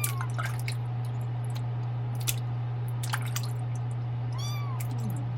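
Tiny kitten mewing twice during a flea bath, one short call at the start and another about four and a half seconds in, with a few sharp clicks and a steady low hum underneath.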